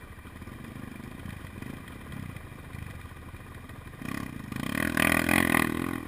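Enduro dirt bike engine running at a distance, then revving hard and loud close by from about four seconds in as the bike climbs through water.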